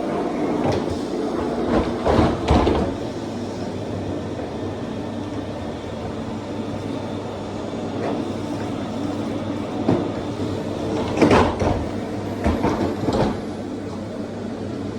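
Vacuum cleaner running steadily, with clusters of knocks and bumps as it is pushed about, loudest about two seconds in and again about eleven to thirteen seconds in.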